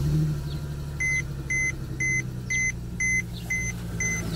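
Mercedes C300 4Matic's 3.0-litre V6 idling through its custom X-pipe exhaust just after a cold start, heard from inside the cabin. About a second in, a dashboard warning chime starts beeping evenly, about two high beeps a second.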